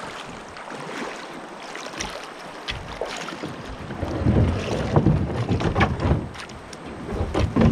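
Knocks and scrapes of a kayak being boarded and pushed off, with a low wind rumble on the microphone that grows from about four seconds in.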